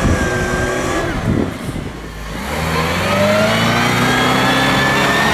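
Car engine revving hard: it eases off about a second and a half in, then climbs in pitch from about two and a half seconds and holds at high revs.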